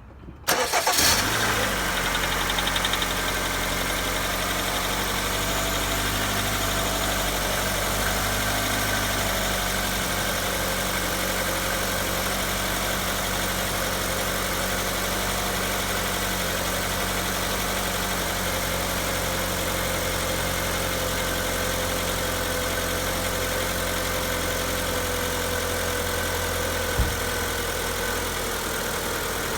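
Hyundai Santa Fe's G4KE 2.4-litre four-cylinder petrol engine starting cold about half a second in, then idling, its fast cold idle slowly dropping. The owner asks whether it is knocking on the cold start. There is a single short click near the end.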